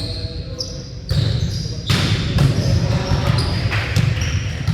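Indoor volleyball play in a gym hall: sharp smacks of the ball about one and two seconds in, with short high squeaks and echo from the hall.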